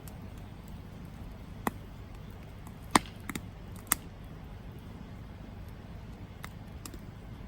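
Wood fire burning with a low steady rumble, broken by about six sharp crackles and pops from the burning wood, the loudest about three seconds in.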